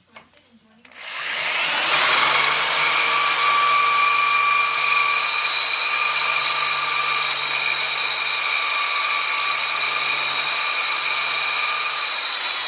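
Electric power tool spinning up about a second in with a rising whine, then running steadily with a high whine over a rough noise, as in cutting or grinding steel plate; it begins to spin down near the end.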